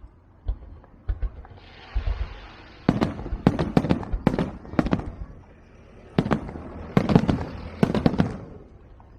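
Fireworks going off: about a dozen sharp bangs at irregular intervals, with crackling between them, dying away near the end.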